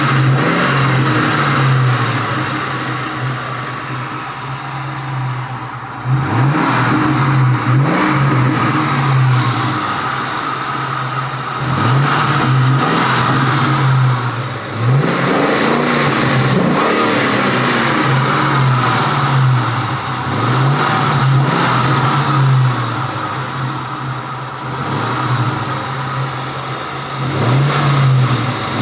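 Ford Mustang Bullitt's V8 idling, blipped several times so that the pitch rises and falls back each time. The owner is chasing an unidentified noise that comes and goes.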